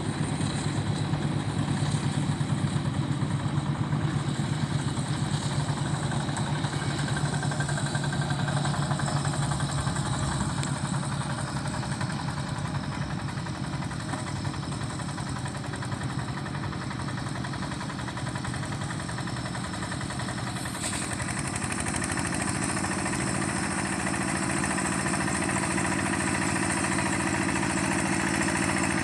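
Rice-field tractor engine running steadily, its sound shifting and growing a little fuller about twenty seconds in.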